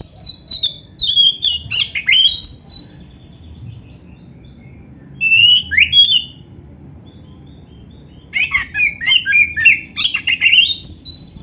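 Oriental magpie-robin (kacer) singing loud, varied 'full isian' song: three bursts of rapid chirps, trills and whistled sweeps, broken by pauses of a couple of seconds.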